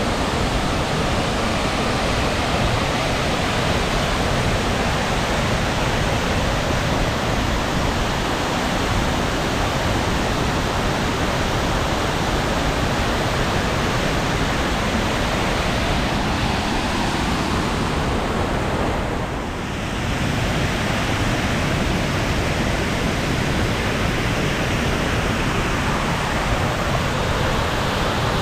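Waterfall in heavy monsoon flow, a steady, loud roar of falling water heard from close by, dipping slightly for a moment about two-thirds of the way through.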